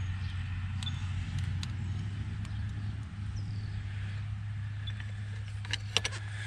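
An engine idling steadily with a low, even hum, with a few sharp clicks or knocks near the end.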